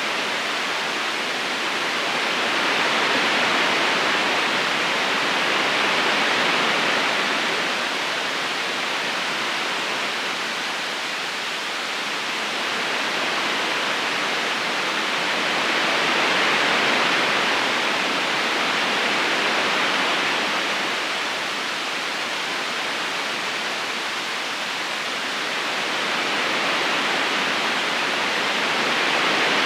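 Flowing river water: a steady, smooth rushing with no distinct splashes, swelling and easing slowly every several seconds.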